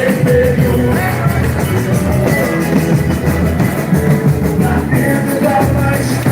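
Live boi-bumbá toada playing loud: a singer's voice over a band with a steady drum beat.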